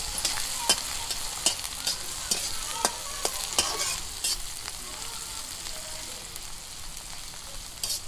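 Chopped garlic, chilli and onion sizzling in hot oil in a steel kadhai for a light tempering, with a slotted steel spatula scraping and tapping the pan as they are stirred. The taps come every half second or so at first and thin out in the second half.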